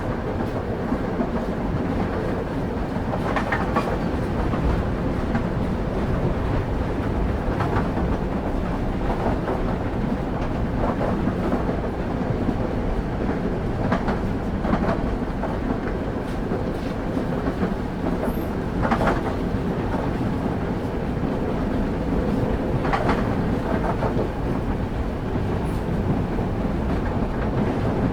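Train running along the track: a steady low rumble of wheels on rails, with a wheel clack over the rail joints every few seconds.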